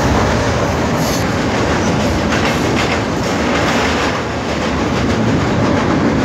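Passenger train running over a riveted steel truss railway bridge: the loud, steady noise of the wheels and carriages on the bridge track, heard from on board.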